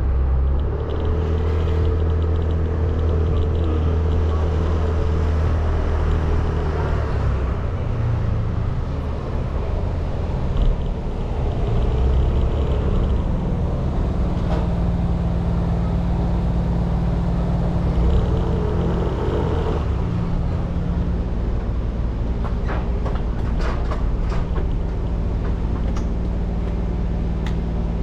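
Motorcycle engine running at low revs, a steady low hum whose pitch shifts a few times, with a few short clicks near the end.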